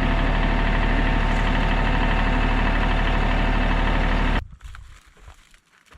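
Tractor engine running steadily, cut off abruptly about four seconds in. After it, faint rustling and soft steps.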